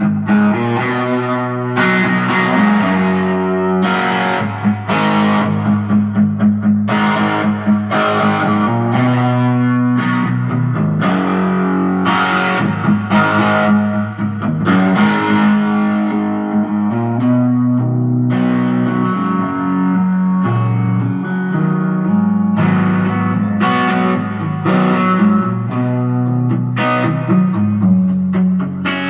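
B.C. Rich KKV signature electric guitar played with distortion: chords and riffs struck about once a second, each left to ring.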